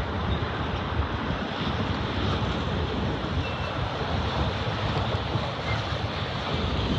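Freight train of autorack cars rolling past, a steady noise of wheels on rail, with wind buffeting the microphone.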